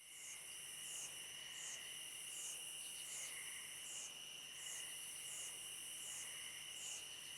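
Faint night-time insect chorus of crickets: a steady high trill, with a higher chirping pulse repeating a little more than once a second.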